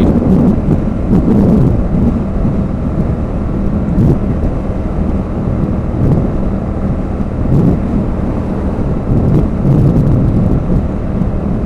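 Motorcycle riding steadily at motorway speed: loud, steady wind rumble buffeting the microphone over a constant engine hum.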